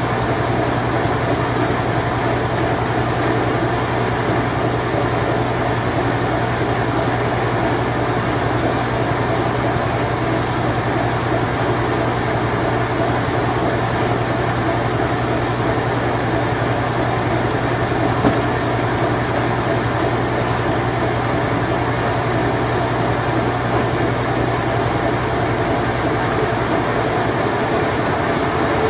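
Late-1980s Whirlpool Imperial Clean Touch washing machine running its spin cycle: a steady low hum over an even rushing noise, unchanging throughout.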